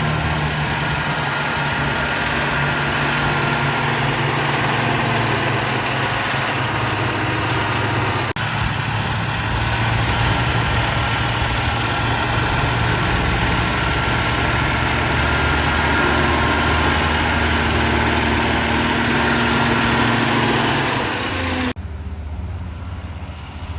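Motor grader's diesel engine running steadily under load as it works the soil. The sound drops off suddenly near the end.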